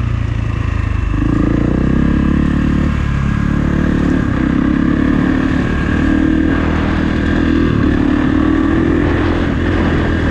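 Kawasaki KX450 four-stroke single-cylinder dirt bike engine running under throttle. It revs up about a second in and holds high revs, dipping briefly a few times as the throttle eases and opens again.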